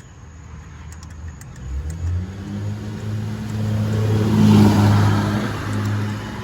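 A motor vehicle driving past. Its engine note builds from about two seconds in, is loudest a little past the middle, then fades.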